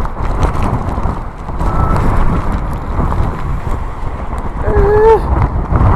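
Typhoon-force wind buffeting the phone's microphone: a loud, gusting rumble that swells and eases, with a brief pitched sound about five seconds in.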